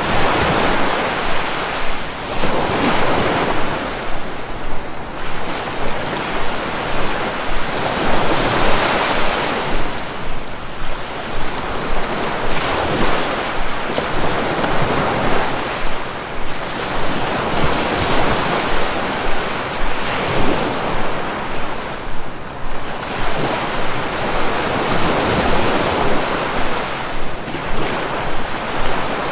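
Sea waves washing in and breaking on the shore, the rush of water swelling and falling back every few seconds.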